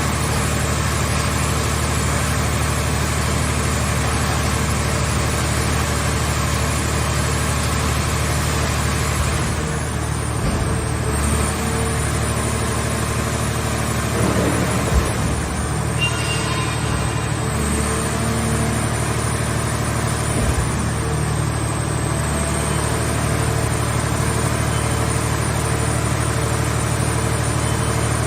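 Engine of a mobile scrap car-body baler running steadily, with a couple of short knocks around the middle.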